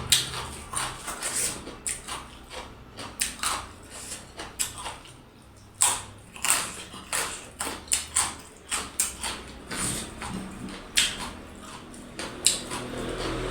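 Close-miked eating sounds: irregular wet smacks, clicks and chewing from a person's mouth, several each second.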